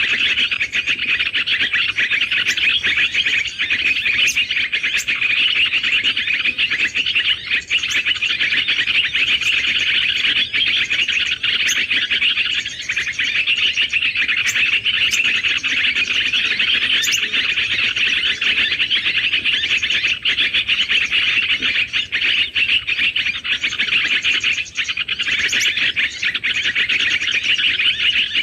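Dense, continuous twittering of many small birds, a fast unbroken chatter of high chirps.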